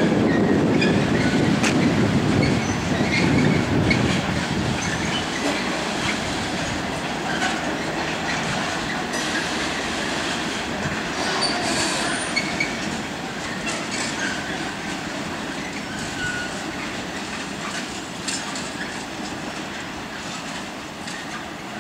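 Train running past on the rails, loud for the first few seconds and then fading as it moves away. Wheels clack over rail joints, with brief wheel squeals.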